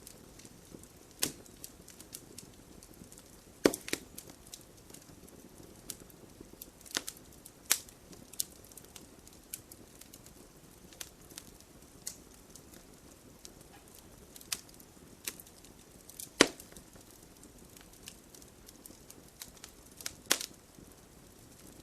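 Wood fire burning in a fireplace: a soft steady hiss broken by irregular sharp crackles and pops from the logs, the loudest pops about 4, 8, 16 and 20 seconds in.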